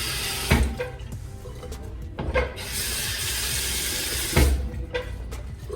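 High-pressure bathroom sink faucet gushing in two bursts, each cut off with a sharp thump. The water kicks back off the sink from the strong pressure.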